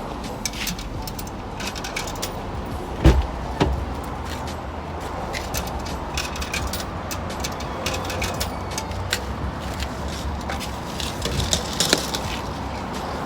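Coin-operated car wash vacuum running with a steady low drone, grit and debris clicking and rattling as they are sucked up the hose, and a louder knock about three seconds in.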